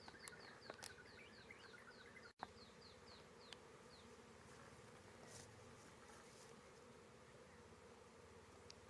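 Faint, steady hum of honeybees buzzing. Over it, in the first four seconds, short high falling chirps repeat about twice a second.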